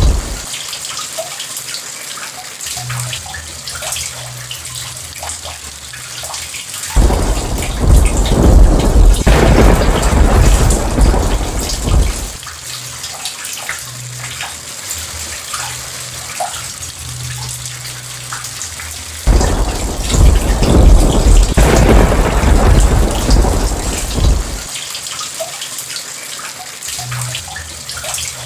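Steady rain falling, with two long rolls of thunder that each break in suddenly and rumble for about five seconds, the first about a quarter of the way in and the second about two-thirds of the way in.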